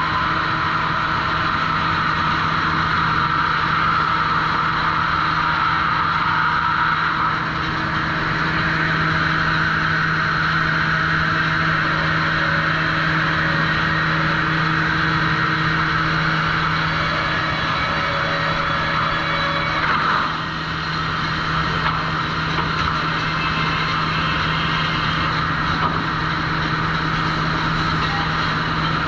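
Sawmill trim saw machinery running steadily: a constant low hum under a loud rushing whine, with a brief downward glide about twenty seconds in.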